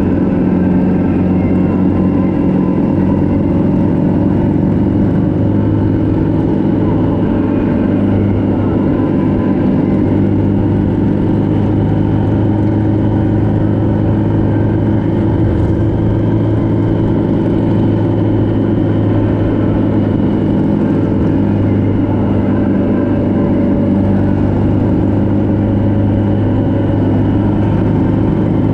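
Motorcycle engine running steadily at cruising speed while riding, its pitch holding nearly level with slight rises and falls.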